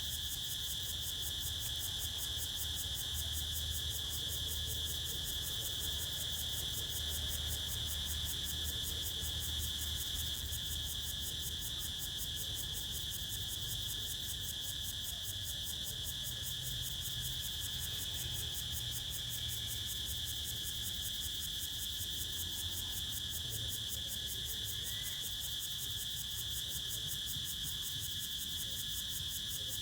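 Crickets chirring in a continuous chorus, a steady high trill that never breaks, over a low rumble of wind.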